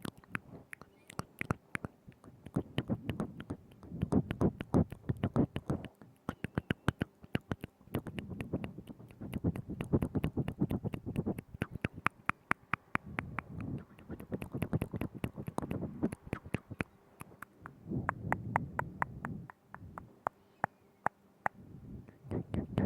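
ASMR mouth sounds made right at a binaural microphone: rapid wet tongue clicks and lip smacks, coming in clusters of a second or two with short pauses between.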